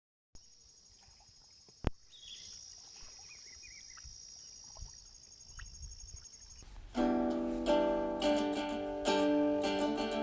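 A steady high-pitched outdoor buzz with a sharp click about two seconds in, then plucked-string music starts about seven seconds in and plays on.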